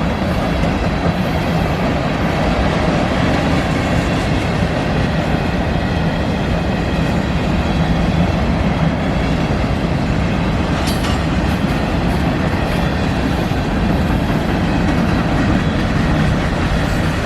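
Freight cars of a manifest train rolling past: a steady, loud rumble of steel wheels on the rails, with one sharp clank about eleven seconds in.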